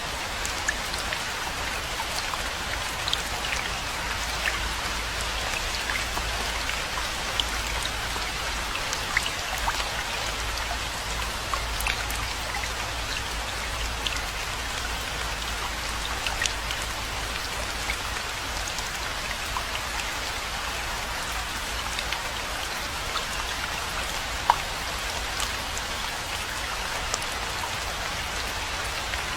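Steady rainfall, an even hiss of rain with scattered individual drops striking close by as sharp ticks.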